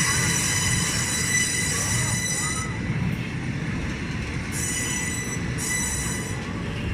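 Train on the rails, its wheels squealing in a steady high ring over a low rumble; the highest part of the squeal drops away and comes back in the second half.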